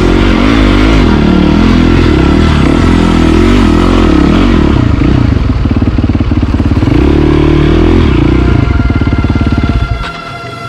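Motorcycle engine revving up and down under load, loud and close, then dropping away sharply near the end.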